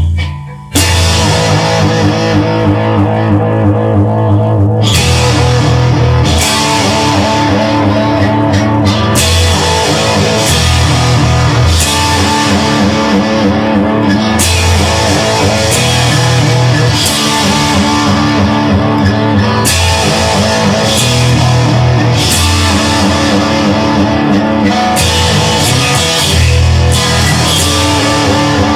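Rock music: an instrumental intro with guitar and a drum kit, starting with a hit about a second in and then running at a steady, loud level.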